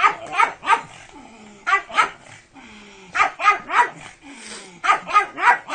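A dog barking in quick groups of two to four barks, each group followed by a short falling whine.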